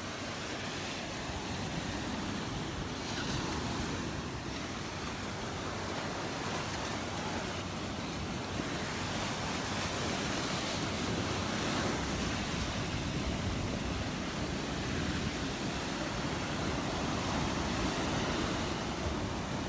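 Gulf of Mexico surf washing onto the beach in a steady, continuous wash of small waves.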